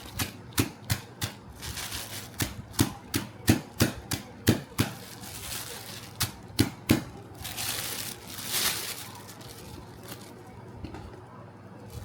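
Knife chopping on a cutting board: a run of about a dozen sharp chops at an uneven pace, a pause, then two more, followed by a softer rustling scrape.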